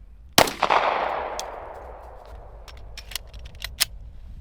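A rifle shot about half a second in, its sound trailing off over the next second or so. It is followed by a quick run of short, sharp metallic clicks: the magazine being changed mid-drill.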